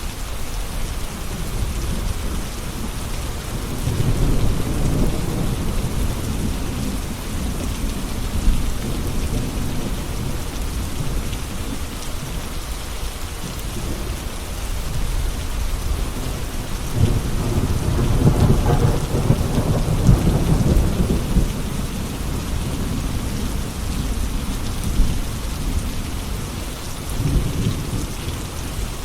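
Steady rain with thunder rumbling, swelling about four seconds in and more strongly from about seventeen to twenty-two seconds in.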